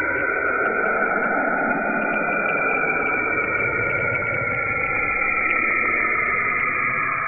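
Sonified space recording, electromagnetic (radio or plasma-wave) signals turned into audio: a steady hiss like radio static with a few slowly falling tones and faint scattered chirps.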